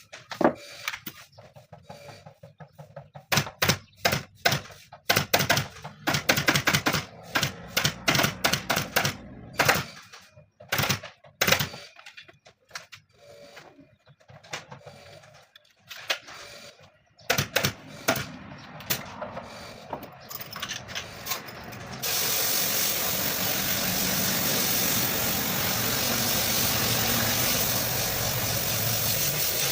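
Pneumatic staple gun firing in irregular runs of sharp clacks, with tool knocks, during armchair reupholstery. About twenty-two seconds in, a steady compressed-air spray hiss begins and carries on.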